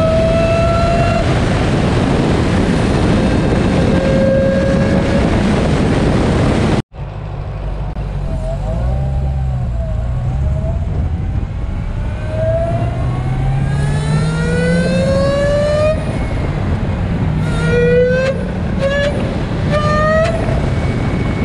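Dodge Challenger SRT Hellcat's supercharged 6.2 L V8 accelerating, its supercharger whine rising with revs, with the new Bwoody intake fitted. The first part has heavy wind rush. After a sudden cut about a third of the way in, the engine pulls from low speed and the whine climbs again, breaking off and restarting several times near the end.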